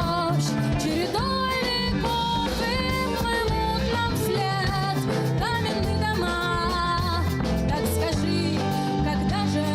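Band music: a blues-flavoured song with a sliding melodic lead line over sustained bass notes and drums.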